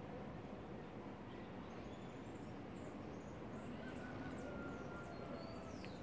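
Birds calling in the treetops: short, high chirps that fall in pitch, mostly in the second half, and a thin, steady whistled note held for about two seconds, over a steady outdoor background hiss.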